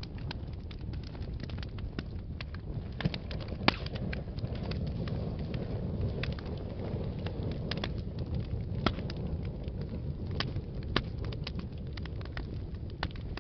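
Wood fire burning in a fireplace, with a steady low rumble of flames and frequent sharp crackles and pops, a few of them louder.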